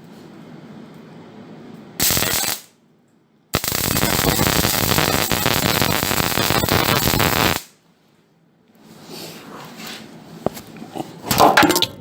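Arc welding on sheet-metal panels, stitch welding: a short burst of arc crackle, then a longer run of about four seconds. Quieter knocks and clatter follow near the end.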